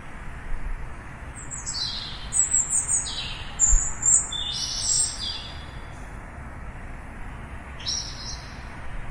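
Small birds chirping: a quick run of short, high, falling notes for a few seconds, then a brief second burst near the end, over steady low background noise.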